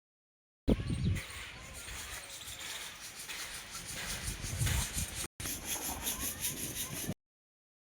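Outdoor ambience of rustling hiss with irregular low rumbles of wind on the microphone, starting and stopping abruptly with a brief dropout about five seconds in.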